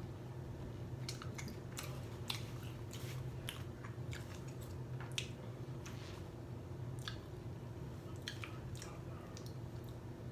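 Close-up wet chewing of a mouthful of burger, with irregular sharp smacking clicks from the mouth over a steady low hum.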